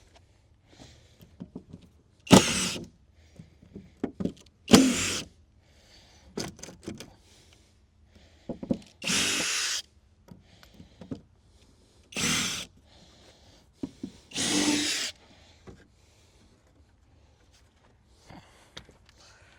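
Power drill backing screws out of wooden deck boards in five short bursts, with small knocks and clicks of handling between them.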